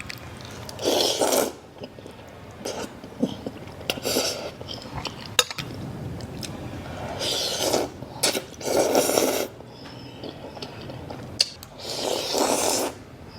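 A person slurping thukpa noodle soup in several drawn-out slurps, with a few light clicks of utensils against the bowl in between.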